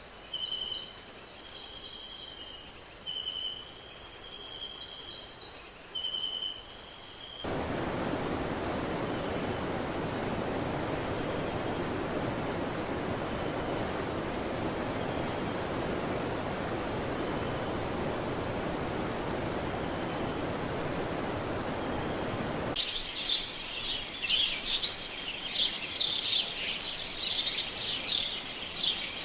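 Forest ambience with no single dominant source. It opens with a steady high insect trill and short repeated bird calls. About seven seconds in it cuts to an even rushing noise with the faint trill still above it. Near the end it cuts again to a busy chorus of quick bird chirps.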